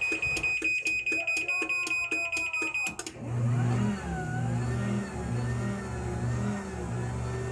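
Garage door opener beeping rapidly with a high tone, which stops suddenly about three seconds in; the opener's motor then runs with a steady low hum as it drives the door through its automatic force-learning travel.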